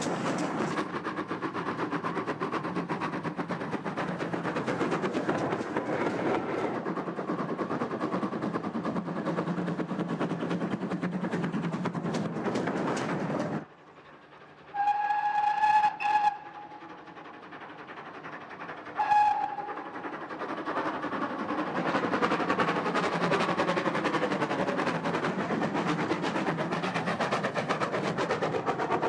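A train running with steady rattling and clicking, which cuts off abruptly about halfway through. Then a single-note locomotive whistle sounds twice, one long blast and one short, and the train's running noise builds up again.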